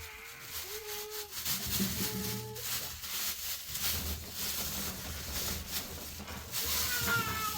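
Rough, repeated scraping strokes.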